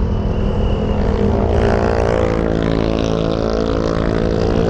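Motorcycle engine running under way, its note growing louder about a second and a half in, over a steady low rumble of wind on a lavalier mic under the rider's balaclava.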